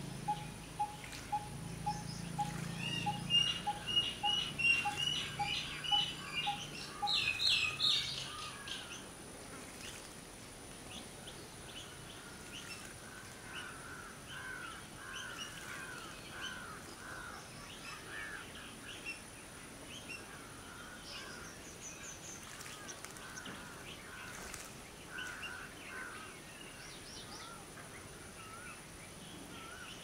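Wild birds calling in the background. One bird repeats a single low note about two to three times a second for the first seven seconds, with a burst of sharp high chirps near the end of that run. From about twelve seconds, a loose series of down-slurred calls and scattered chirps follows.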